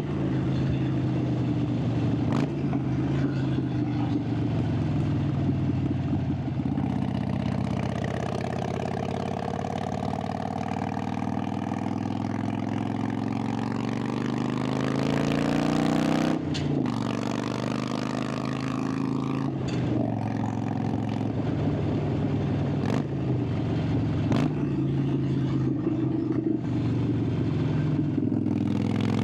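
Harley-Davidson Sportster 883's air-cooled V-twin engine and exhaust under way. The pitch rises steadily through a long pull in the middle, then breaks briefly about halfway and a few more times near the end, dropping back each time before climbing again.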